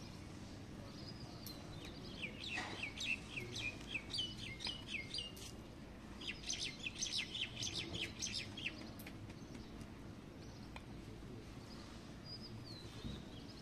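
A bird calling in two runs of quick, sharp, high repeated notes, each lasting a few seconds, with one more short call near the end, over a faint steady outdoor background.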